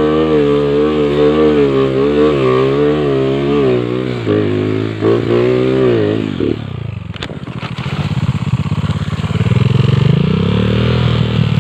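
Motorcycle engine revving hard with a wavering pitch while struggling up a steep, slippery slope. About six seconds in, the revs drop sharply, a few clatters follow, and the engine runs on at lower revs that rise and fall.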